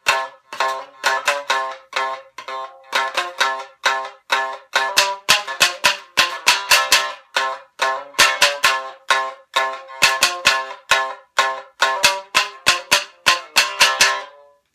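Tsugaru shamisen played solo: a fast run of hard-struck notes, each with a sharp snapping attack, broken by a few brief pauses.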